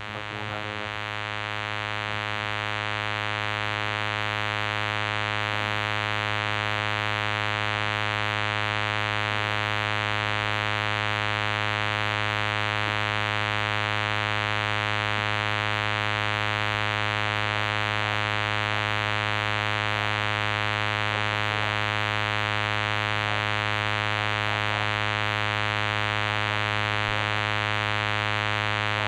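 A loud, steady electronic buzz tone, unchanging in pitch, that starts suddenly and cuts off suddenly, with a faint voice barely showing beneath it.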